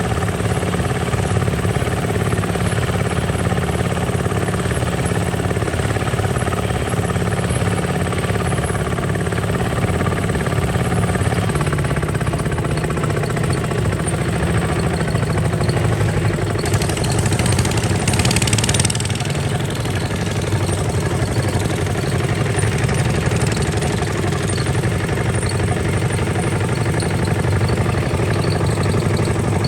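Kubota RT140 DI single-cylinder diesel engine of a two-wheel walking tractor running steadily, with a short burst of hiss about two-thirds of the way through.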